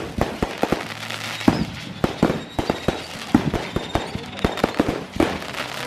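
Fireworks going off in quick, irregular succession: many sharp bangs and pops, some with a short echo after them.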